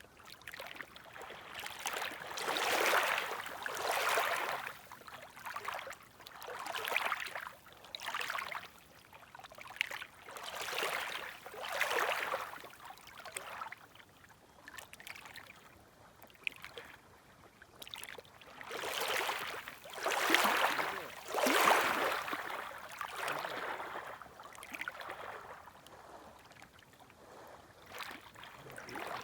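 Small, gentle waves lapping and washing at the shoreline, coming in irregular swells with quieter spells between.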